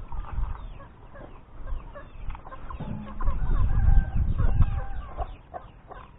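Chickens clucking, with many short calls throughout. A low rumble swells about three seconds in and is the loudest part for a couple of seconds.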